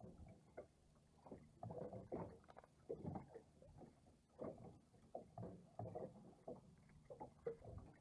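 Water lapping and slapping against a small boat's hull, faint and irregular, a few small splashes a second.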